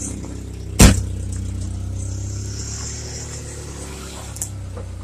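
1995 Ford Ranger engine idling steadily and smoothly, not running rough, on a cold start after four months of sitting. A single loud thump comes about a second in.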